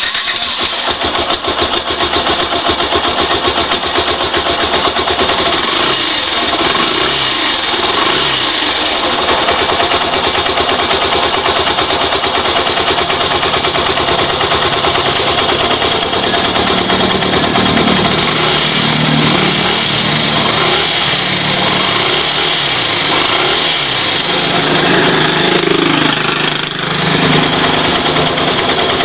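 Yamaha SZ-R motorcycle's single-cylinder four-stroke engine running steadily at idle, coming in suddenly at the start. The pitch swells a little a few times in the second half.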